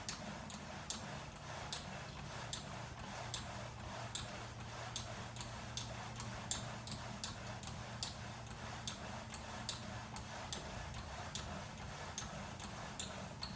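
VersaClimber climbing machine making a sharp, high ticking squeak in a steady rhythm, a strong tick about every 0.8 s with fainter ones between, over a low steady hum. It is the squeaking noise of the unit in use.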